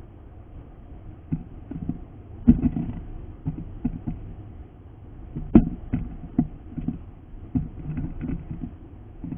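Irregular soft taps and knocks over a low rumble, with two louder knocks, one about two and a half seconds in and one a little past halfway.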